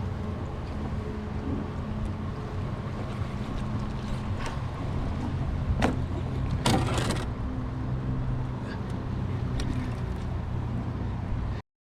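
Steady low hum of a boat engine over water and wind noise, with a few sharp knocks partway through. The sound cuts off suddenly near the end.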